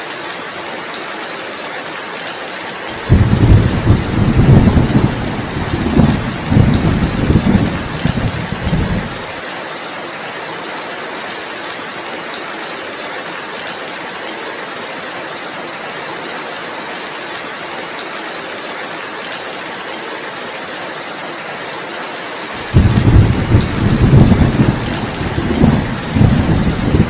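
Steady heavy rain hissing throughout, with two rolls of low thunder. The first rumbles in suddenly about three seconds in and lasts some six seconds; the second begins near the end.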